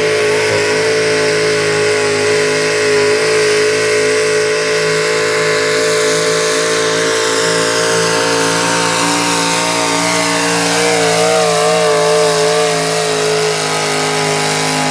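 Super stock pulling truck's engine at full throttle while pulling the sled, held at a steady high pitch, with a slight wavering in pitch about ten seconds in.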